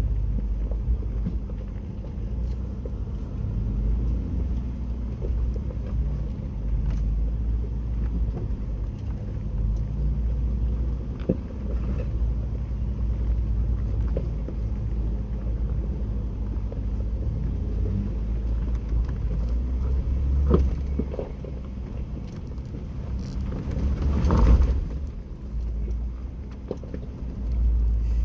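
Jeep Wrangler crawling over a rocky off-road trail: a steady low engine and drivetrain rumble with scattered knocks and clunks, and a louder clatter about 24 seconds in.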